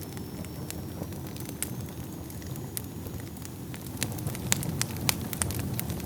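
Wood fire burning in a fireplace: a steady low rumble of flames with sharp crackles and pops, more frequent and louder in the last two seconds.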